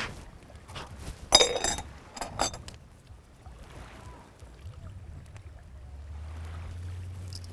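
A few sharp clinks of hard cookware. The loudest rings briefly about a second and a half in, and two lighter ones follow just after, over a low steady rumble.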